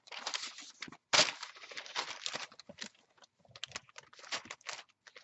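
Paper being handled and laid in layers, rustling and crinkling in a run of irregular crackles, with a sharper crackle about a second in.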